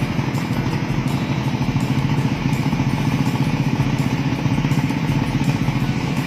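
Homemade propeller aircraft's 150 cc Kawasaki Ninja two-stroke motorcycle engine running steadily.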